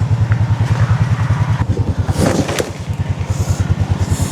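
Small engine of the vehicle that has just backed up a trailer, idling with a steady rapid low putter. A brief clatter ending in a sharp knock comes a little over two seconds in.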